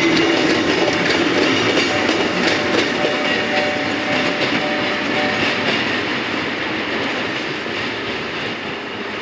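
Kotoden's Taisho-era retro electric railcars passing, wheels clacking over rail joints, the sound fading as the two-car train moves away.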